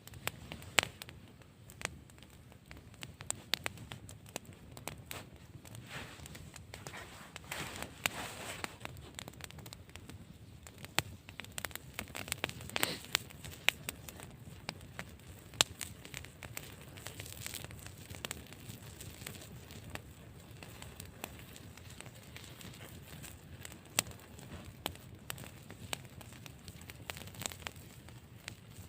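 Campfire crackling: a steady low hiss of burning wood with frequent irregular sharp pops and snaps, some much louder than the rest.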